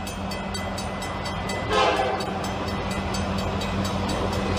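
Diesel freight locomotive drawing closer to a level crossing, its engine running as a steady low rumble that grows louder. It sounds a short horn blast about two seconds in, over an evenly repeating ding from the crossing bell.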